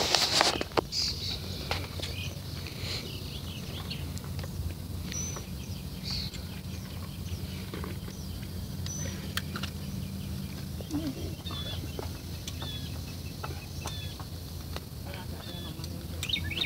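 Birds chirping, scattered short high calls, over a steady low hum, with a short louder noise at the very start.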